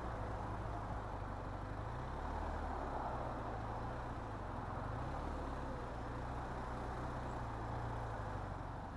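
Motorcycle engine running at low revs, its pitch rising and falling a little, under a steady hiss of wind and road noise.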